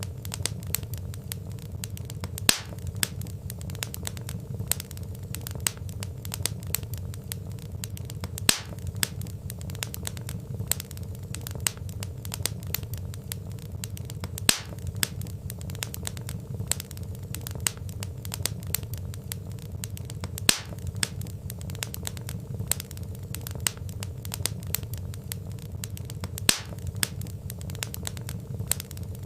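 Wood fire crackling: a dense run of small crackles over a low steady rumble, with a louder pop about every six seconds.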